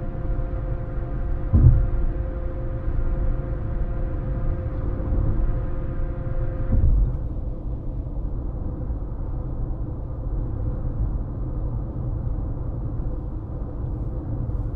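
Car road noise while driving: a steady low rumble of tyres and engine, with a faint hum of several steady tones that stops about seven seconds in, when the hiss turns duller. Two short thumps come through, one about a second and a half in and one about seven seconds in.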